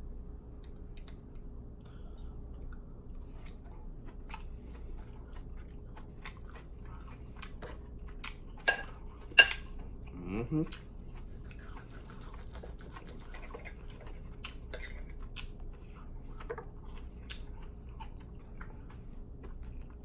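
Close-miked chewing of a seasoned pork chop, with many small wet mouth clicks throughout. There are two sharper clicks just before the middle, then a brief hum of the voice.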